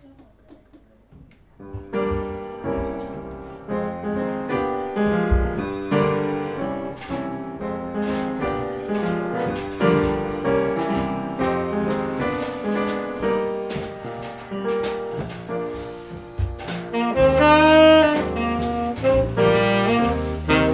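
Live jazz combo: after a short quiet start, a piano plays a chordal introduction with light cymbal strokes from the drums, and near the end a lead melody line and a walking bass come in.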